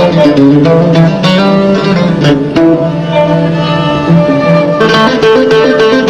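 Instrumental music in the Algerian chaabi style: plucked string instruments playing a quick melody with plucked attacks, joined by violin, with no singing yet.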